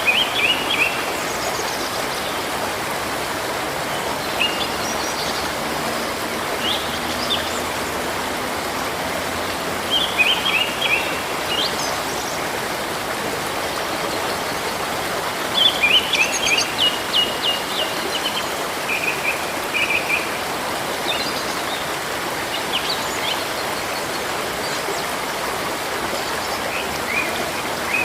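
River water running steadily, with small birds chirping over it in short phrases of quick notes every few seconds; the busiest run of calls comes about halfway through.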